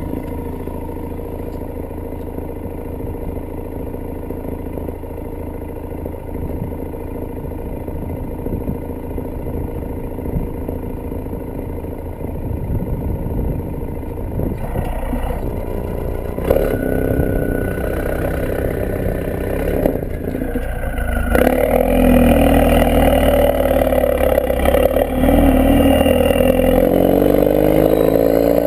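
Ford Focus RS mk3's 2.3-litre turbocharged four-cylinder running through a non-resonated, decatted Milltek Sport exhaust: a steady idle at first, then getting louder from about halfway through, with the pitch swinging up and down as the engine is revved or driven.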